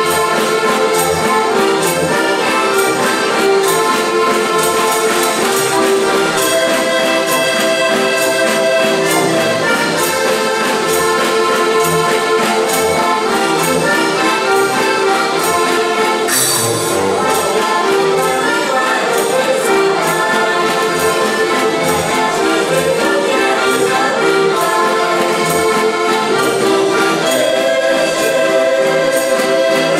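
Accordions playing a Slovak folk tune in sustained reedy chords over a regular bass beat.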